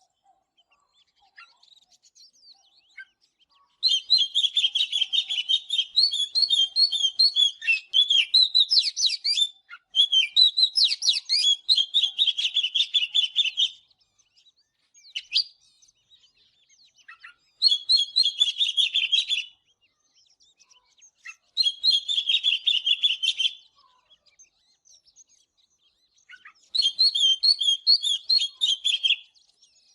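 Oriental magpie-robin singing: bursts of fast, varied, high-pitched whistled notes in phrases of two to five seconds, separated by short pauses.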